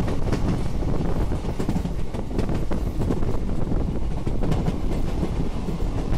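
Passenger train running steadily, heard from inside the coach: a continuous rumble of wheels on rails with faint scattered clicks and some wind on the microphone.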